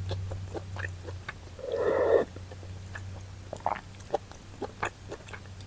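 Close-miked mukbang eating sounds: chewing chewy chicken intestine stew, with short wet mouth clicks scattered through and one louder, longer sound about two seconds in.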